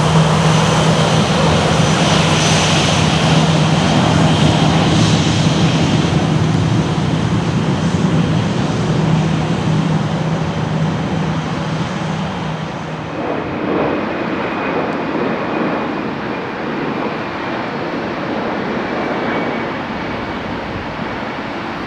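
Boeing 737-800's CFM56 jet engines running loud, with a steady low hum under the roar. About fourteen seconds in, the sound changes to a quieter, duller jet noise of a second airliner, an Airbus A321neo.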